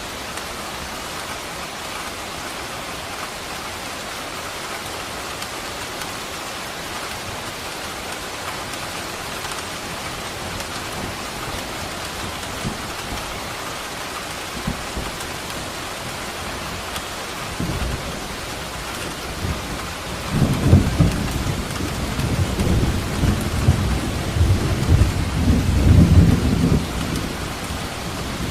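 Steady rain falling, with a long roll of thunder rumbling low from about two-thirds of the way through until near the end.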